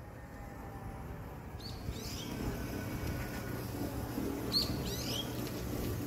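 A small songbird chirping: two short runs of quick falling notes, one about one and a half seconds in and another about four and a half seconds in, over a steady low background hum.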